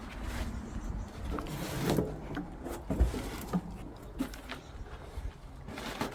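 Scattered light knocks and scuffs of someone squeezing between closely parked old cars and handling them, with a sharper knock about three seconds in.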